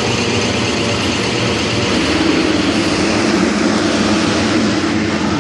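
Several youth dirt bike engines racing, revving up and down as they run together.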